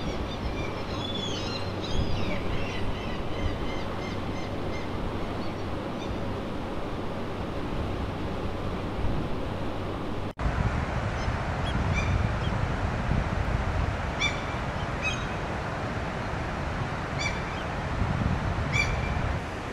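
Birds calling over a steady rushing background. There is a flurry of short chirps in the first few seconds, with a low steady hum beneath. After an abrupt cut about halfway, a series of short calls comes every second or two.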